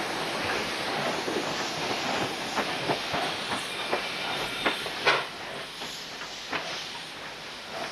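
Train running on rails: a steady rushing noise with irregular knocks and clicks from the wheels, easing off after about five seconds.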